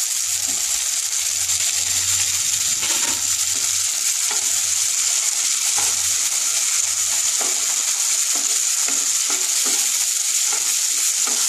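Chopped tomato and onions sizzling steadily in hot oil in a nonstick frying pan, stirred with a wooden spatula in short repeated scraping strokes.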